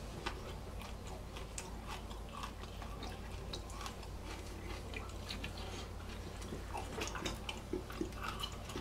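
Mouth sounds of someone eating: chewing with wet lip-smacking, small scattered clicks throughout, a little busier near the end, over a low steady hum.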